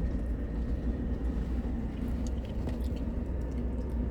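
Pickup truck cab interior while driving slowly on light throttle: a steady low rumble of engine and tyres, with a few faint clicks about two and a half seconds in.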